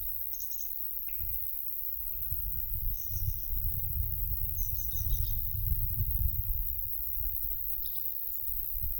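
Wind buffeting the microphone in a low, uneven rumble, with short high bird calls and chirps several times, the longest a quick run of notes about halfway through. A steady high hiss runs underneath.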